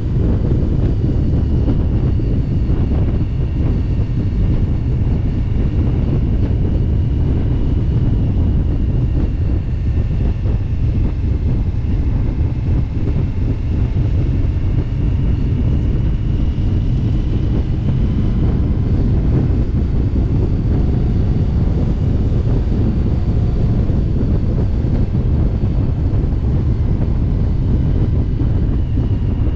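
Wind rushing over the microphone of a moving motorcycle, with the engine droning steadily underneath at cruising speed.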